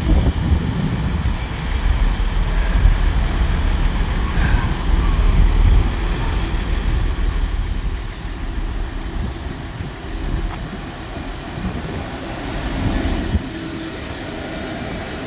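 A GB Railfreight freight train, hauled by Class 66 diesel locomotive 66714, passing close by. It makes a heavy low rumble that is loudest for the first six seconds or so and then eases off.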